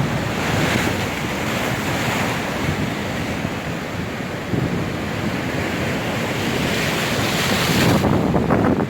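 Storm waves breaking and washing up the shore in surges, with strong wind buffeting the microphone.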